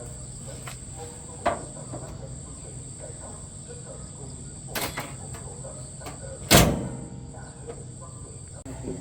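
Three sharp knocks, the loudest about six and a half seconds in, over a steady high-pitched insect drone like crickets and a low hum.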